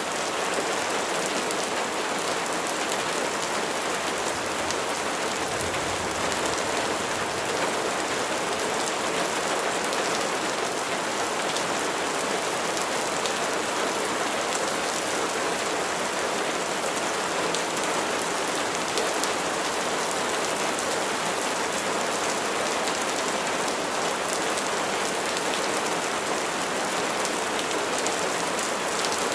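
Steady rainfall, a continuous even hiss of drops with many fine individual patters on a surface.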